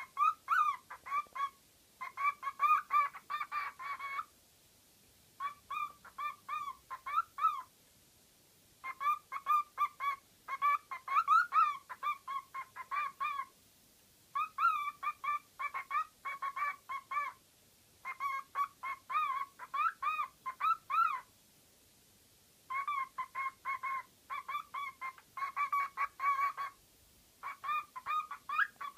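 A pet bird calling in fast runs of short repeated notes, several a second, in bursts of one to three seconds with pauses of about a second between them.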